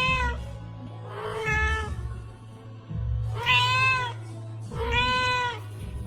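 A cat meowing four times, each meow drawn out for about a second, over background music. Everything cuts off abruptly at the end.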